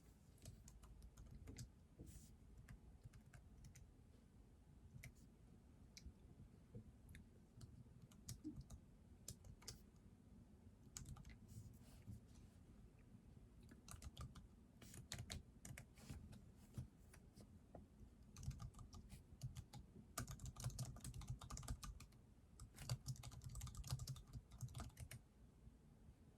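Faint typing on a computer keyboard: scattered key clicks at first, then quicker runs of typing in the second half.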